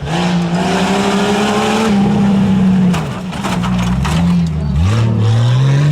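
Tuff truck engine running hard on the course, its pitch holding, dipping as the throttle is eased, then climbing steeply as it is revved again near the end. A few sharp knocks sound in the middle.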